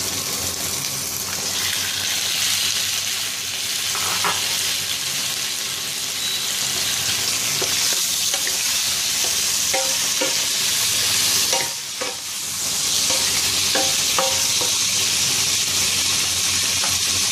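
Raw catfish pieces sizzling in hot oil in a wok with chillies and garlic, stirred with a wooden spatula that scrapes and knocks against the pan now and then. The sizzle swells about two seconds in and drops away briefly around twelve seconds.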